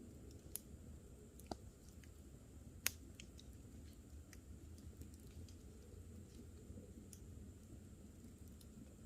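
Wood campfire crackling: scattered small pops and snaps, the sharpest about three seconds in, over a faint low rumble.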